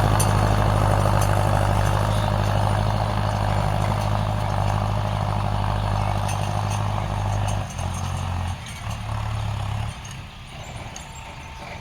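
Tractor engine running with a steady low drone, used for ploughing; about eight seconds in it drops and turns uneven, then falls quieter near the end.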